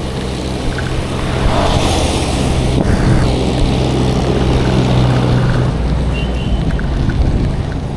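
Road traffic: a motor vehicle's engine runs with a steady hum under rushing road and wind noise, and the hum fades about six seconds in.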